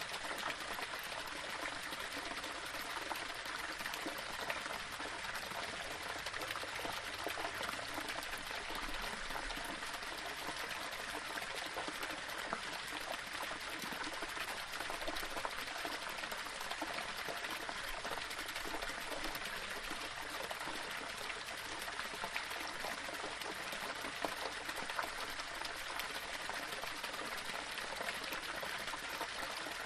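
Small waterfall of water running and splashing over stones, a steady even rush with a fine spatter of droplets.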